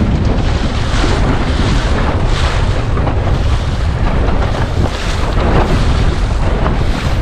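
Gusty wind buffeting the microphone with a steady low rumble, over the hiss and splash of waves against a sailing dinghy's hull as it sails close-hauled; the rush of spray swells every second or two.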